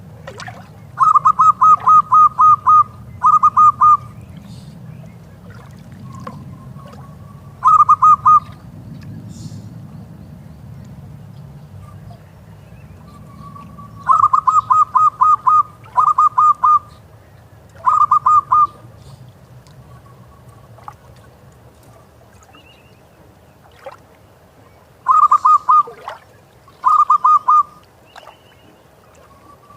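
Zebra dove (perkutut) cooing: phrases of rapid staccato notes, repeated with pauses about eight times, over a faint low rumble.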